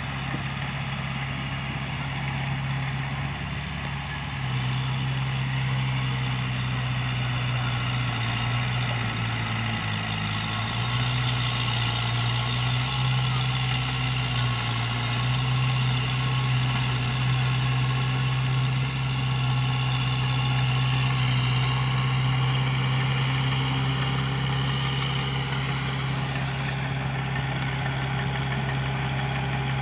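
Heavy diesel engine of an earthmoving machine running steadily. It gets a little louder and higher about four seconds in and dips briefly around ten seconds in.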